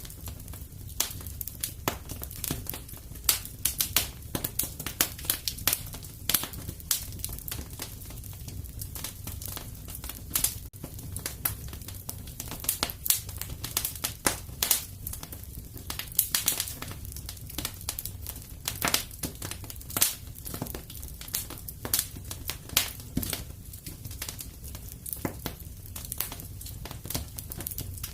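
Wood fire crackling and popping in a fireplace: many irregular sharp snaps over a low steady rumble of the flames.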